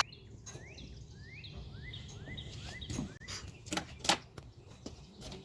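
A bird calling a quick run of about nine short, rising chirps, followed by a few sharp clicks or knocks.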